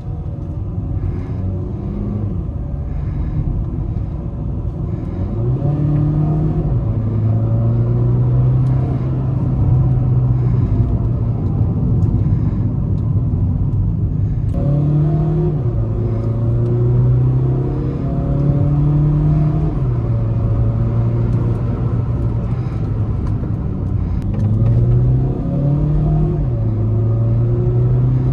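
VW Vento 1.5 TDI diesel engine and stock exhaust pulling along on the road. The engine note climbs and then drops back three times, about 5, 15 and 25 seconds in, as the DSG gearbox shifts under throttle.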